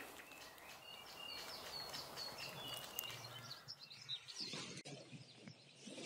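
Small songbirds chirping in a forest: a quick series of short, high repeated notes over a faint, steady background hiss, fading out about four seconds in.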